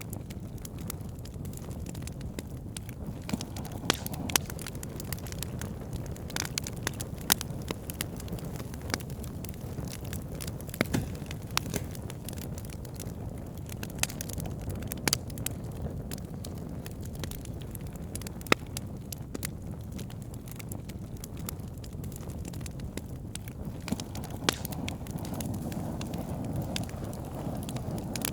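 Campfire burning: a steady low rush of flames with sharp crackles and pops of burning wood at irregular intervals, several of them louder snaps.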